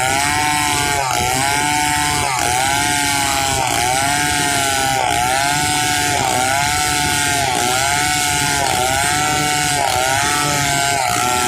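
Stihl 070 two-stroke chainsaw cutting through pule wood at high revs. The engine note dips and recovers in a steady rhythm a little under once a second, as the chain is loaded in the cut.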